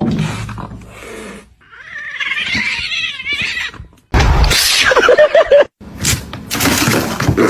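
Cats meowing in a run of short clips that cut off abruptly one into the next; the loudest part starts about four seconds in.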